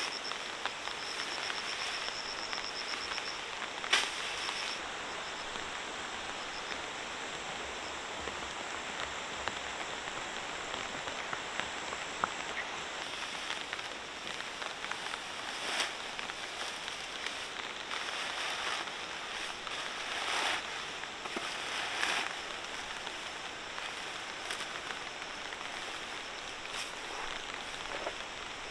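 Steady rain falling, an even hiss with a few louder swells and one sharp knock about four seconds in. A high pulsing trill sounds over it during the first few seconds.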